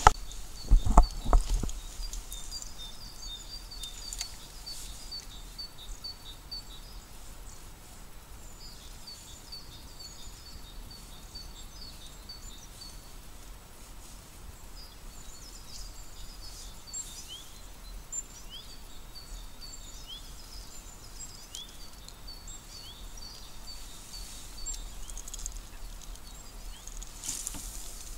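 Small birds singing: repeated phrases of high, quick chirping notes, with a few short downward whistles, over faint outdoor background noise. A couple of dull knocks about a second in.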